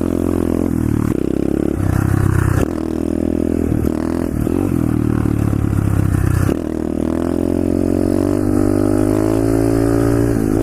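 125cc SSR pit bike's single-cylinder four-stroke engine revving under throttle while riding. The revs build and drop off sharply twice, then hold and climb slowly.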